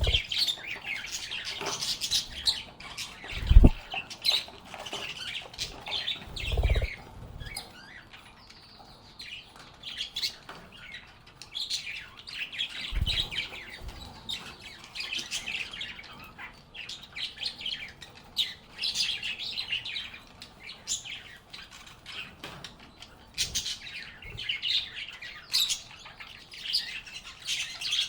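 A flock of lovebirds chirping and squawking, a steady busy chatter of short high calls. A few dull low thumps sound in the first half, the loudest about four seconds in.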